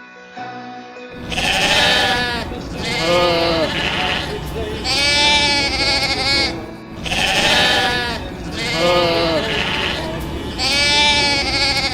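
Music stops about a second in, then a sheep bleats over and over, about six loud, wavering calls a second or two apart, over a steady low noise.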